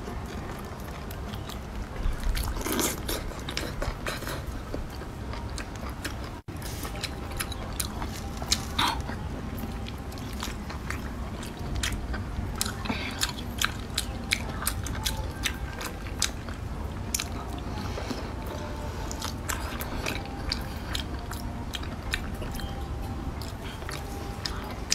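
Close-up biting and chewing of a whole cooked spicy octopus: a steady run of short bites, clicks and mouth sounds throughout.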